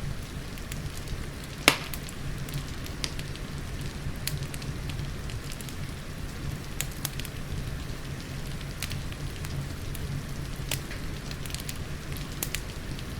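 Wood fire crackling in a fireplace, with scattered sharp pops and one louder pop a little under two seconds in, over steady rain.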